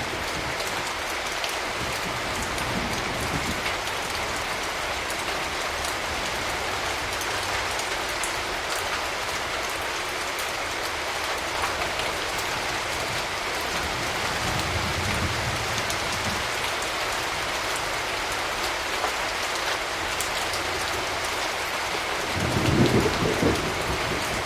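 Steady rain falling, with thunder rumbling low in the background; a louder roll of thunder starts near the end.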